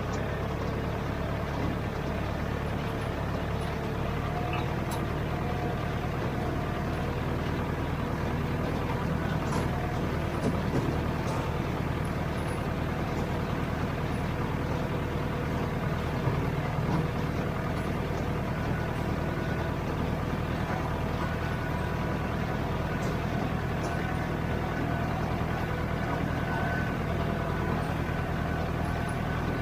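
Farm tractor engine running steadily at a constant speed, with light rattles over the top.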